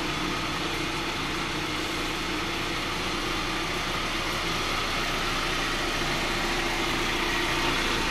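Honda Civic engine idling steadily.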